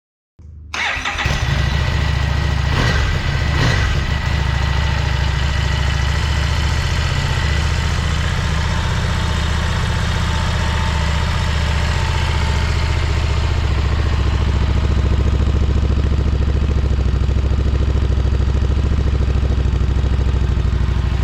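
Harley-Davidson Street Rod 750 V-twin, breathing through a Vance & Hines high-output slip-on muffler, starting on its first try: a brief crank, catching about a second in, then idling steadily with a deep, loud exhaust note.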